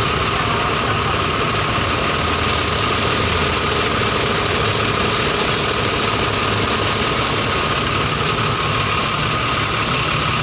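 Scania K380 bus engine idling steadily, with a steady higher whine running over the engine note.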